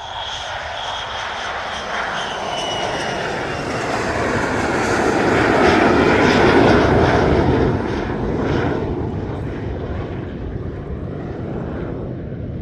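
A fixed-wing aircraft's engines passing by, swelling to a peak about six seconds in and then fading, with a high whine that falls slightly in pitch.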